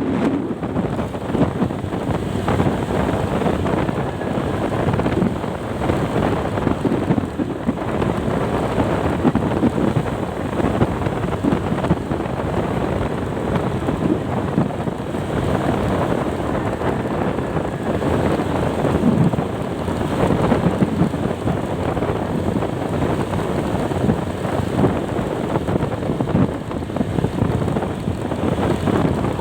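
Steady wind rushing over the microphone, mixed with rain and road noise from a moving vehicle, gusting a little.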